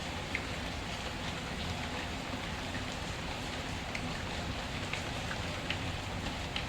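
Steady rain falling, mixed with scattered small crackles and pops of a burning wood fire.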